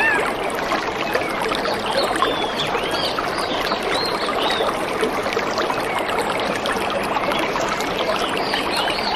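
Songbirds chirping, many short arched notes in quick succession, over the steady rush of running water from a stream.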